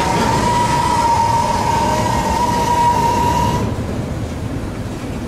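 CSX freight train passing, a heavy rumble of wheels on rail. A steady high tone rides over it and cuts off about three and a half seconds in.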